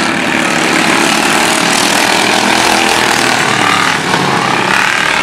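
Several racing lawn mowers' small engines running together, with overlapping engine tones whose pitches shift up and down.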